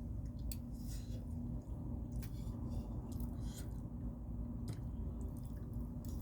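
A person chewing food close to the microphone, with scattered short wet mouth clicks and smacks, over a steady low hum.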